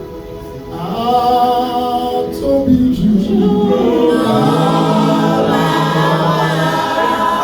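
A group of voices singing a slow worship song in long, held notes, swelling louder about a second in.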